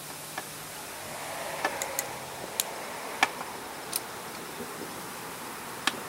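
Scattered small clicks and taps, about seven over several seconds, of hands and tools pushing a rubber fuel line and its clamp onto a lawn mower's plastic carburetor, over a steady faint hiss.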